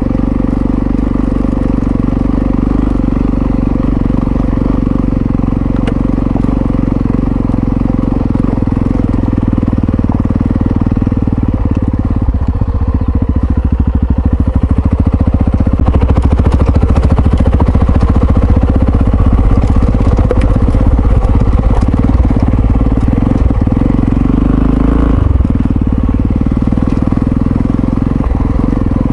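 Yamaha XT660Z Ténéré's single-cylinder engine running under way. It grows louder and rougher from a little under halfway, then drops back about four seconds before the end.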